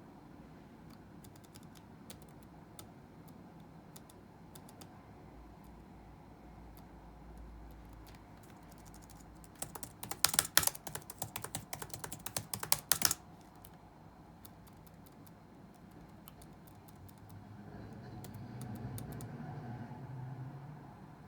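Computer keyboard typing: scattered light keystrokes, then a fast, loud flurry of keystrokes about ten seconds in that lasts about three seconds, then a few more light taps. Near the end a low background rumble swells and fades.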